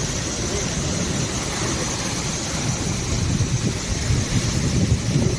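Steady rushing roar of the Chitrakote waterfall, with the low rumble turning gusty about halfway through.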